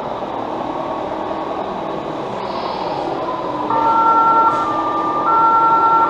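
Two-tone ambulance siren from an RC model ambulance's sound module, starting about two-thirds of the way in and alternating between a higher and a lower tone, over a steady hall din.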